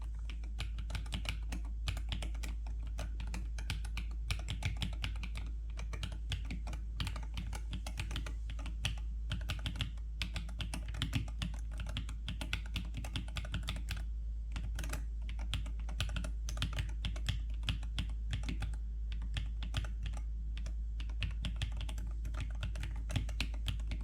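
Fast, continuous typing on a Teamwolf Raven 68 HE keyboard with magnetic Hall-effect Breeze V2 switches and PBT keycaps, many keystrokes a second with some louder clacks among them. A steady low hum runs underneath.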